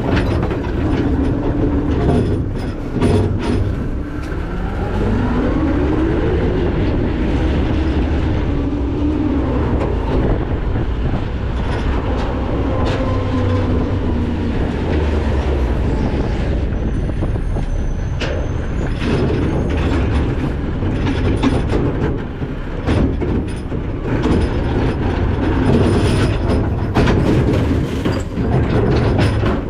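McNeilus ZR rear-load garbage truck's hopper packing trash: the hydraulic packer blade working, with a steady mechanical rumble, whines that rise and fall, and repeated metal clanks and crunches.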